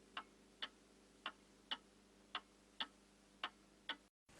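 A clock ticking steadily, about two ticks a second, in a quiet room. It cuts off abruptly near the end.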